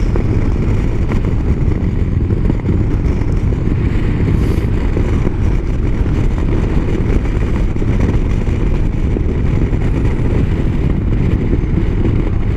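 Motorcycle riding at highway speed: a steady, loud rumble of engine and road noise with no change in pace.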